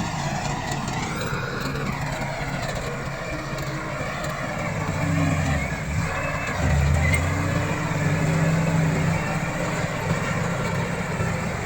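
Komatsu D68 bulldozer's diesel engine working under load. It grows louder and deeper about five seconds in and is loudest a little past the middle.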